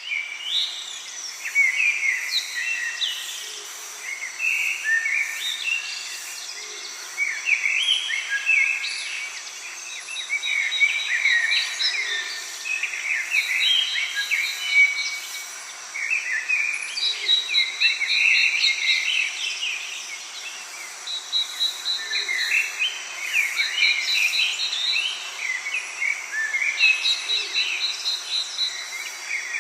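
Many birds singing and chirping at once in a dense, continuous chorus, with a high rapid trill repeating every few seconds and a faint steady high hum.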